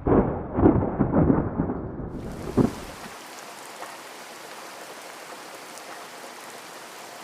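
Thunder rumbling for the first few seconds, then the steady hiss of rain.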